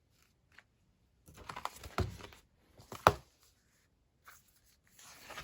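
Paper sticker sheets being handled and leafed through: short rustles, with one sharp tap about three seconds in and a softer rustle near the end.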